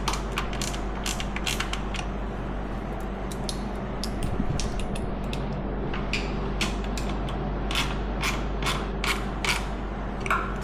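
Mechanical clicks and creaks from hand work on the quad, about three a second at first, thinning out in the middle and coming back in clusters later, over a steady low hum.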